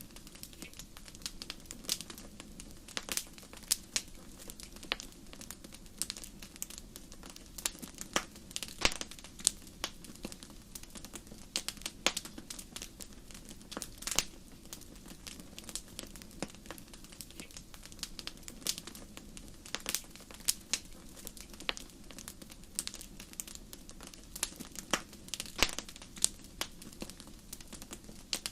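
Wood fire crackling in a fireplace: irregular sharp pops and snaps over a steady low hiss of the burning flames.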